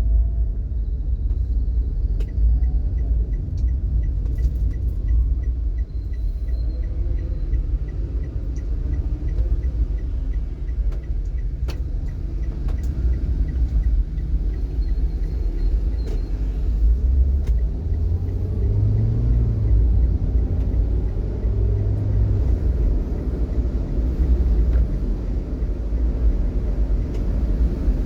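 Steady low rumble of a vehicle driving in traffic: engine and road noise with no sudden events.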